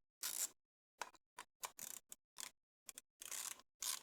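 A run of short, irregular clicks and scrapes from hand tools working on a small metal engine part, the removed fast idle valve, as it is taken apart on the bench.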